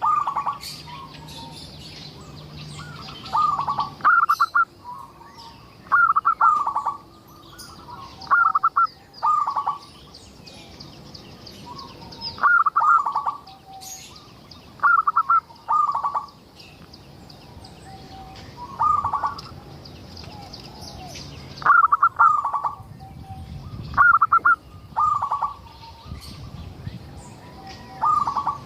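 Zebra dove (perkutut) cooing: a run of short, rapidly trilled coo phrases, one every two to three seconds, each followed by a few softer lower notes.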